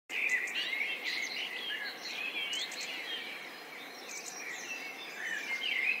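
Several birds chirping and singing at once, many short calls and gliding whistles overlapping, over a steady hiss of outdoor background noise; the calls thin out around the middle and pick up again near the end.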